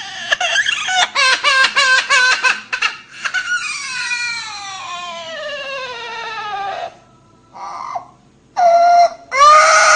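Parrot mimicking a newborn baby's crying: a run of quick sobbing cries, then one long wail falling steadily in pitch, a short pause, and loud cries again near the end.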